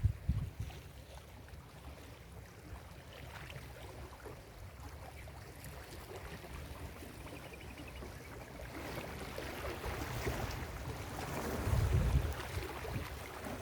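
Ocean surf on a beach, with a low wind rumble on the microphone. A wave builds from about nine seconds in and washes in loudest near twelve seconds, then eases.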